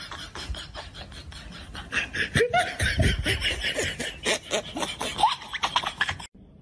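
A person laughing in quick, repeated bursts, louder from about two seconds in, cutting off abruptly near the end.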